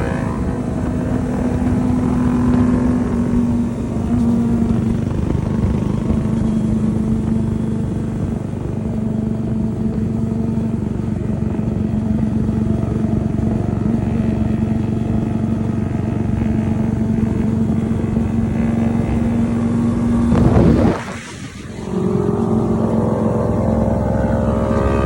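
250 cc sport motorcycle engine running steadily at speed. About 21 seconds in there is a brief sweep and a sudden drop in level, and then the engine comes back with its pitch rising.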